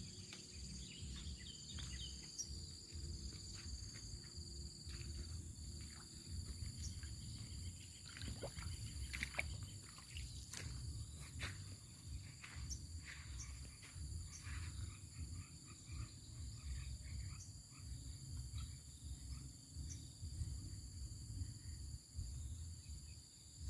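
Field insects such as crickets trilling steadily at several high pitches after rain, with many short scattered animal calls and clicks over them, busiest in the middle, and a low rumble underneath.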